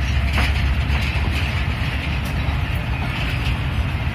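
Moving train running with a steady low rumble and a few short sharp clicks.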